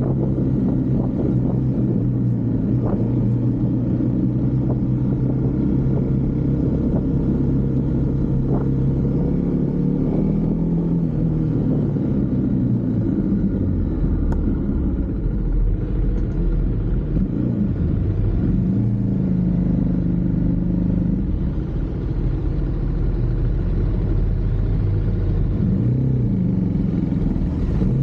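Husqvarna Svartpilen 401's single-cylinder engine running under way. Its pitch holds steady at first, then rises and falls repeatedly from about a third of the way in as the rider works the throttle and gears.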